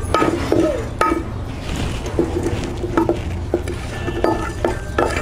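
Wooden spatula scraping and knocking against a nonstick frying pan as whole cumin, coriander and fennel seeds and dried red chillies are stirred while dry-roasting. It makes irregular clicks and taps every second or so over a steady low rumble.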